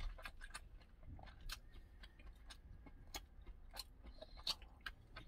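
A person chewing a mouthful of black-rice multigrain rice close to the microphone: faint, irregular wet mouth clicks and smacks.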